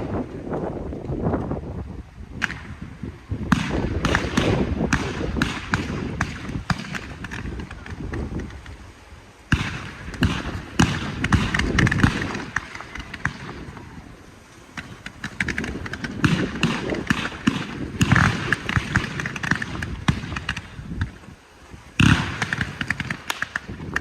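Low-noise display fireworks firing: dull low thuds of launches and bursts, overlaid with dense, irregular crackling and sharp pops, easing off briefly a few times before picking up again.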